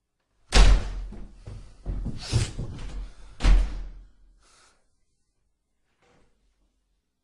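Biting sound effect: a run of sharp, crunchy bites with rough chewing noise between them. There are three loudest strikes about a second apart, and it fades out a little after four seconds.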